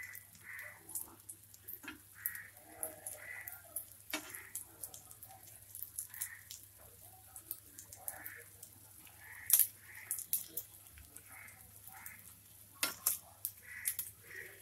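Egg omelette frying in oil on a black tawa: a light sizzle with scattered small pops and crackles. Near the end a few sharper clicks as a steel spatula works under the edge of the omelette against the pan.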